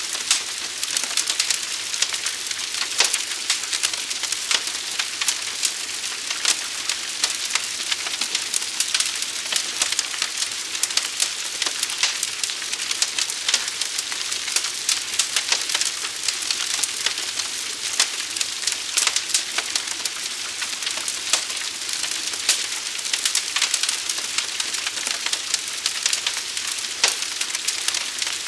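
Forest fire burning: a dense, steady hiss with constant crackling and frequent sharp pops.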